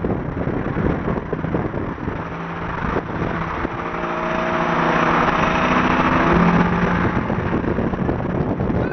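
Car at speed, with road and engine rumble throughout. About three and a half seconds in, a steady engine note rises out of the rumble and grows louder with a rush of noise, peaking just past the middle and then fading back.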